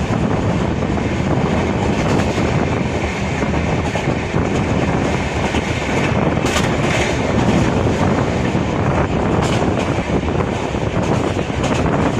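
Passenger express train running along the track, heard from on board: a steady, loud rumble of wheels on rail with rushing air, and a few sharp clicks in the second half.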